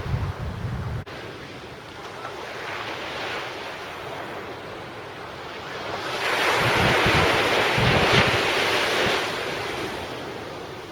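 Surf on the beach: a wave swells about six seconds in and washes up and back over a few seconds. Wind buffets the microphone with a low rumble in the first second.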